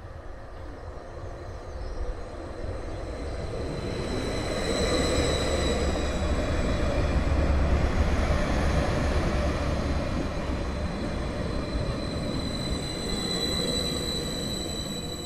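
Greater Anglia Stadler FLIRT passenger train running past over a level crossing: a rumble of wheels on rail that builds to its loudest about halfway through and then eases off. High steady whistling tones sound over it, strongest a few seconds in and again near the end.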